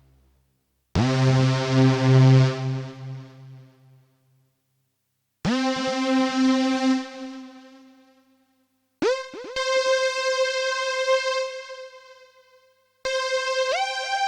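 Access Virus B rack synthesizer playing a bright lead patch as single held notes with short silences between, each of the first three an octave higher than the last. The notes start with a quick downward pitch swoop; the first two fade away while the later ones hold steady, and the last one bends in pitch near the end.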